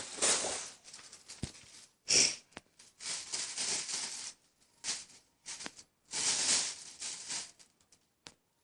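Black plastic bag crinkling and rustling in irregular bursts as a cat moves and plays inside it.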